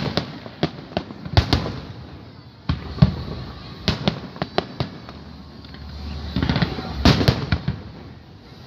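Aerial fireworks bursting over the sea: a string of sharp bangs at irregular intervals, each trailing a short echo, with a rapid cluster of cracks about seven seconds in.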